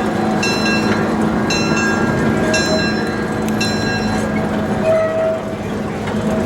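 Locomotive bell on Tracy Lynn 0-4-0 #19 ringing about once a second over the steady sound of the running train, then falling silent a little over halfway through.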